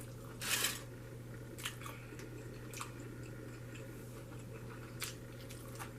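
Close-miked chewing and mouth sounds of a person eating a fast-food burger, with a louder noisy burst about half a second in and scattered short smacks and clicks. A steady low hum sits underneath.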